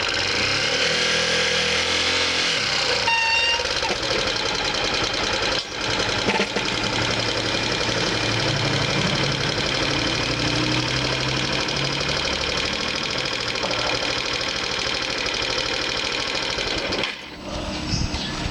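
Motorcycle engine running steadily with road noise, and a short beep about three seconds in.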